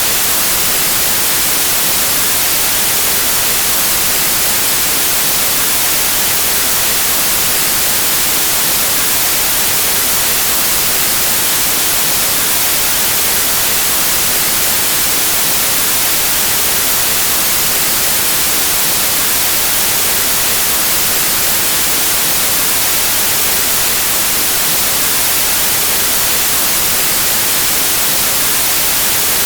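Steady white noise: an even, unbroken hiss across the whole range of pitch, with no changes.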